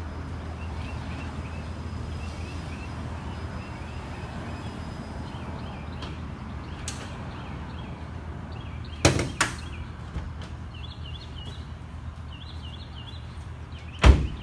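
Sharp knocks over a steady low hum: two close together about nine seconds in, and a louder thump near the end. Faint bird chirps sound throughout.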